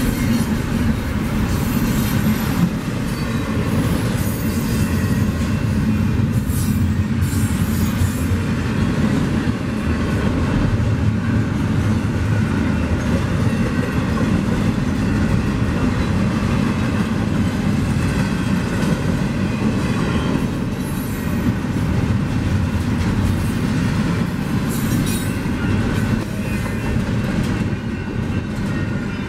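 Double-stack intermodal container freight train passing close by at speed: a steady rolling rumble of wagon wheels on rail, with a few short bursts of higher-pitched wheel noise.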